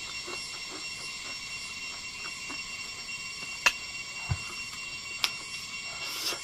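Close-up eating sounds: a man chewing a mouthful of rice and bamboo shoots, with soft wet chewing a few times a second. A couple of sharp clicks and a low thump come around the middle, and there is a short crunchy noise near the end as he bites into a bamboo shoot. Steady high ringing tones run underneath.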